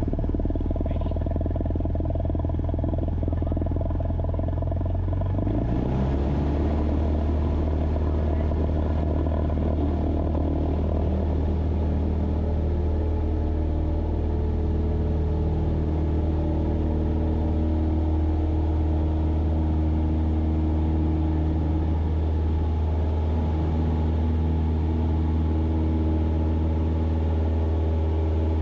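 Cessna 172's piston engine and propeller heard from inside the cabin, running steadily. About five or six seconds in it rises in pitch as the throttle goes to full power for the takeoff, then runs steadily at full power.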